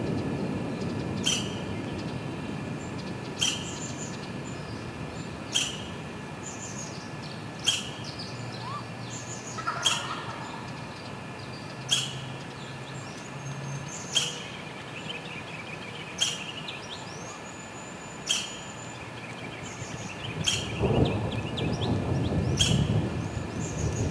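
Thunderstorm: steady rain hiss, with a bird's short, sharp chirp repeating about every two seconds and other birds calling faintly. Thunder rumbles low from about 21 seconds in.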